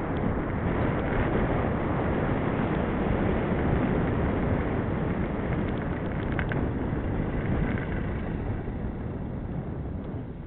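Wind buffeting the microphone of a camera carried on a moving bicycle: a steady low rush, easing slightly near the end.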